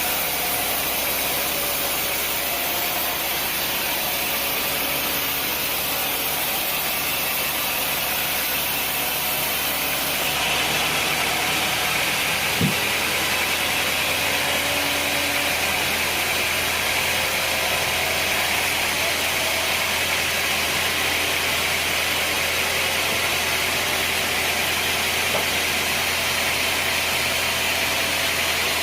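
Sawmill machinery running steadily with an engine-like drone. About ten seconds in the sound brightens and stays brighter, and a brief sharp noise comes a couple of seconds later.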